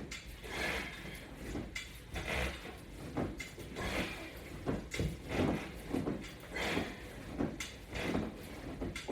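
A person doing sit-ups against resistance bands: a rhythmic swishing and rustling of body and clothing that repeats about every second and a half.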